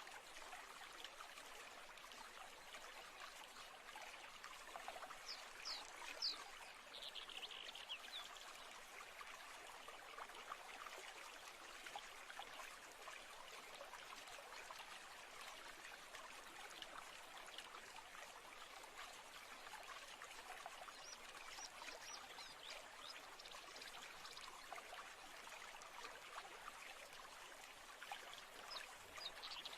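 Faint, steady trickle of a flowing stream, with a few short high chirps about five to eight seconds in and again later.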